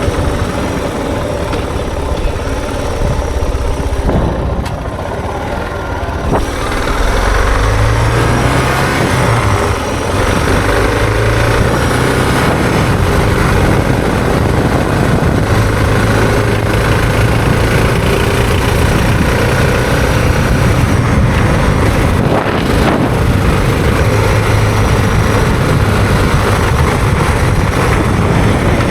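Suzuki DR650's single-cylinder engine running as the motorcycle rides along a dirt road, under a steady rush of wind and road noise. The engine note climbs briefly about eight seconds in, then holds steady.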